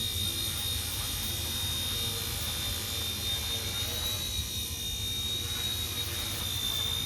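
Micro RC helicopter (RC-ERA C138 Pro, Bell 206 scale) in flight: a steady high-pitched motor whine with rotor hiss that wavers slightly in pitch as the hover is corrected.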